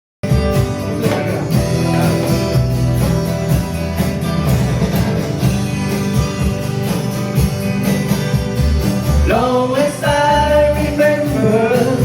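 A country-rock band with guitar plays a song intro. A singer comes in about nine seconds in.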